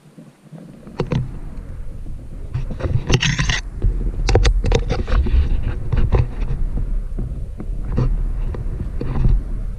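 Scraping and knocking from scrambling over loose cave rock, with a bright scratchy scrape about three seconds in, over a heavy low rumble of handling or wind on the microphone.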